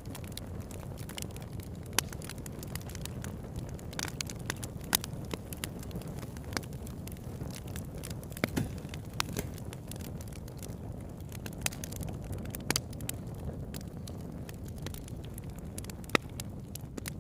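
Campfire burning: burning wood crackling, with irregular sharp pops over a steady low rush. A few louder pops stand out.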